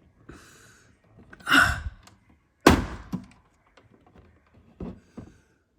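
A single loud thunk about three seconds in, with a short ring-out. Lighter knocks and clicks come before and after it, and a softer rushing noise swells about a second and a half in.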